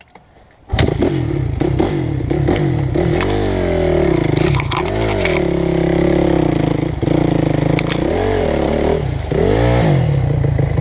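Dirt bike engine cutting in abruptly about a second in, then running and revving up and down several times.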